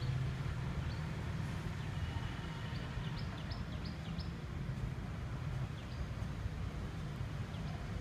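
Birds chirping: a quick run of short, high, falling notes about three seconds in, with a few single chirps around it, over a steady low rumble.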